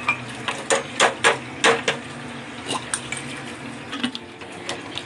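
A stirring utensil clinking and scraping against the cooker pot as chicken is sauteed: a quick run of sharp clinks in the first two seconds, then fewer, over a steady low hiss.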